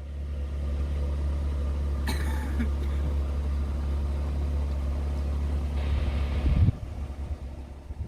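A vehicle engine running steadily with a low hum. There is a click about two seconds in, and a brief louder knock or clatter about six and a half seconds in.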